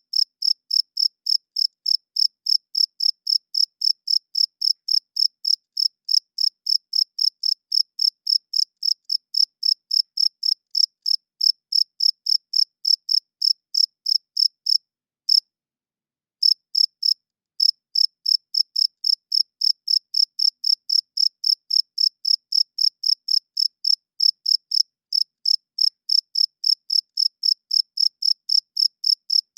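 Male cricket chirping in a steady, even rhythm, about three high-pitched chirps a second, with a pause of a second or two about halfway through.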